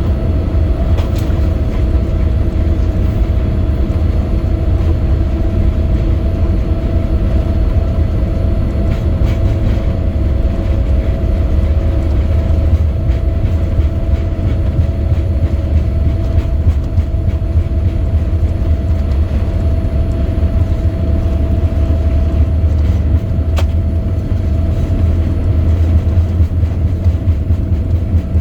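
Boeing 787 Dreamliner's jet engines at takeoff power: a loud, steady low rumble with a steady whine over it.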